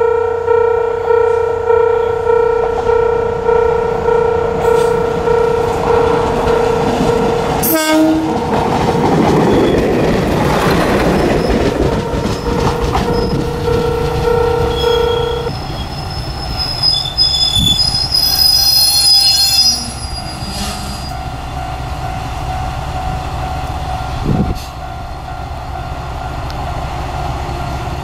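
A Japanese level-crossing bell rings steadily about twice a second and stops about halfway through, while a Moka Railway diesel railcar rumbles up. The railcar's brakes squeal high as it draws to a stop, there is a single knock, and the diesel engine runs on at idle.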